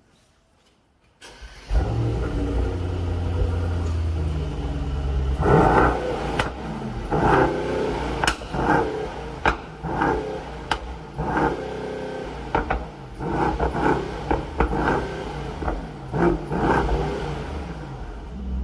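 Mercedes-AMG GT63 4-door with a Performmaster tune, its twin-turbo V8 starting up about a second in and idling. From about five seconds in it is revved in a long series of short throttle blips, each with sharp exhaust cracks.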